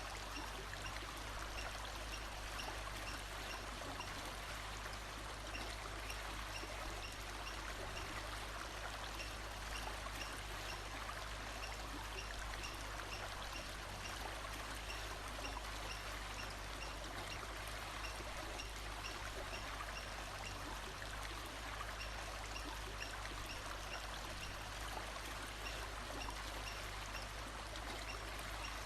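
Steady rush of a flowing stream, with a faint high note repeating about once a second.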